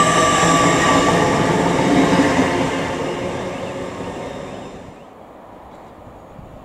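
Hitachi Class 800 Azuma train moving past: a rush of wheel and rail noise with high whining tones, fading away about four to five seconds in.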